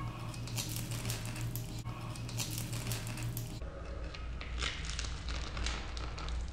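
Crunching and chewing as a crispy fried roll is bitten into: a quick, irregular run of crackly crunches, over a steady low hum.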